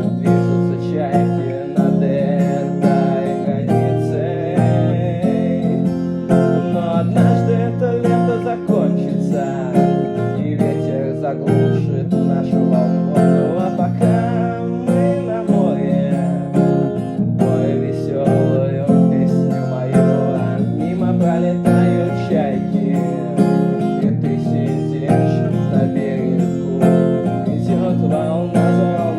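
Instrumental music led by acoustic guitar: a steady run of plucked guitar chords and notes.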